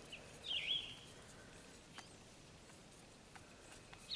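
A bird chirping faintly, one short call about half a second in that dips and rises in pitch, with a few faint clicks later on.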